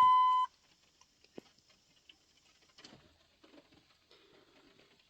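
Dodge Ram instrument cluster chime: a steady, high electronic beep that cuts off about half a second in. Near silence follows, with a few faint ticks.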